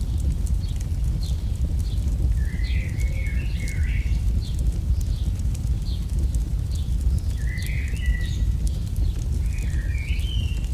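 AI-generated campfire ambience: a fire crackling with irregular sharp pops over a steady low rumble. A bird repeats a short high chirp about once a second and sings a warbling phrase three times, about two, seven and a half and ten seconds in.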